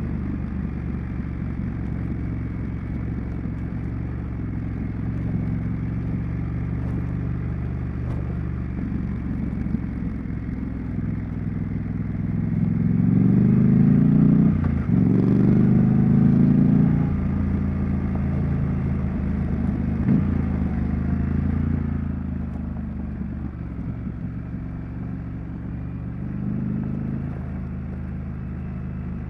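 Triumph Street Scrambler's 900 cc parallel-twin engine and exhaust while riding. Steady cruising, then about halfway through it pulls hard with rising revs, with a quick gear shift in the middle of the pull. It then settles back to a steady, quieter run.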